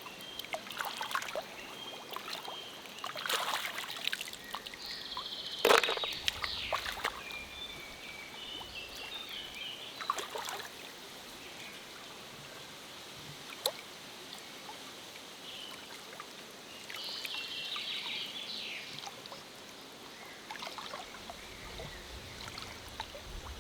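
Shallow forest stream trickling, with intermittent sloshes, splashes and small knocks in the water; the loudest splash comes about six seconds in.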